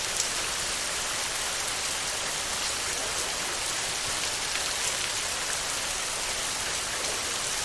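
Heavy rain falling steadily on a tin roof: a dense, even hiss with scattered sharp drop ticks.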